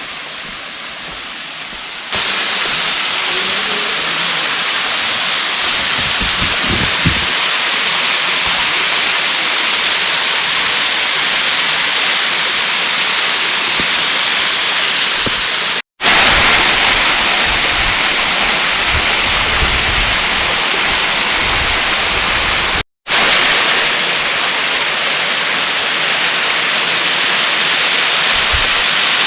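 Steady rushing hiss of Suptadhara waterfall's water falling, with its flow low outside the monsoon. The sound steps up a little about two seconds in and cuts out for an instant twice.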